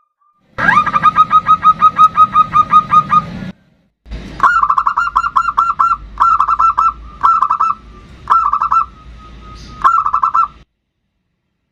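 Zebra dove (perkutut) calling: a fast, even run of short cooing notes, then after a short break five quick clusters of the same notes. This is the kind of call used to lure other perkutut into answering.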